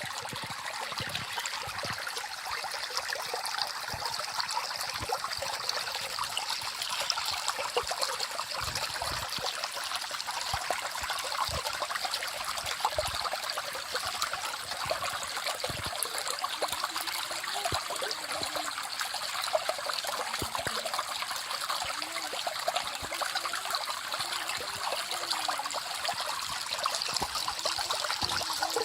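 A small forest stream flowing steadily, water trickling and splashing over stones with a constant rushing hiss and many small irregular drips and gurgles.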